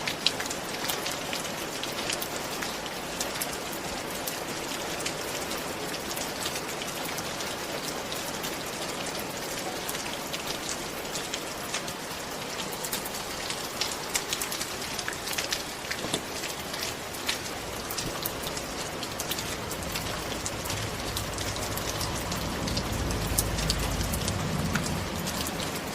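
Steady rain falling, with many individual drops ticking through the hiss. A low rumble builds in the last several seconds.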